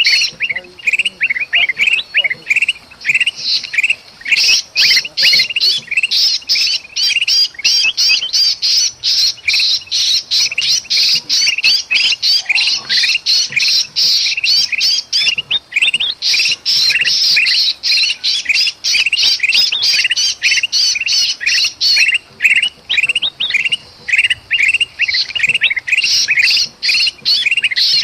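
Bulbuls (kutilang) calling in a rapid, agitated, harsh chatter, several notes a second and nearly unbroken. It is the alarm and distress calling of a bulbul caught and pinched.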